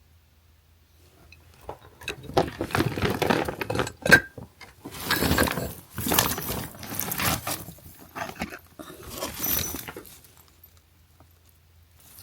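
Bags rustling and items clattering as decorations are unpacked by hand, with one sharp knock about four seconds in.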